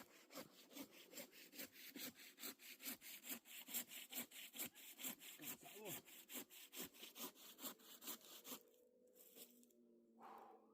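Faint hand saw cutting firewood, fast even back-and-forth strokes, about five a second, stopping about two seconds before the end, followed by one short stroke.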